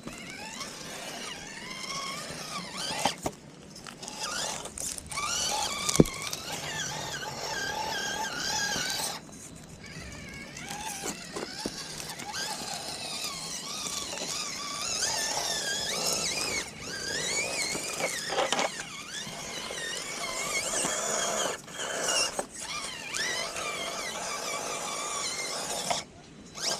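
FMS K5 Blazer RC crawler's electric motor and two-speed gearbox whining, the pitch gliding up and down as the throttle changes. It stops briefly a few times, and there is one sharp click about six seconds in.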